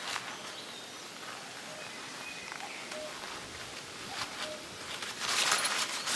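Forest campsite ambience with a few faint, short bird chirps, then a louder spell of crunching, rustling steps on the ground about five seconds in.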